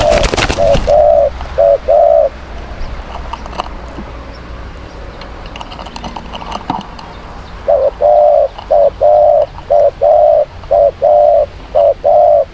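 Spotted dove cooing: a short phrase of low, even coos at the start, then a longer rhythmic run of about nine coos in the last five seconds.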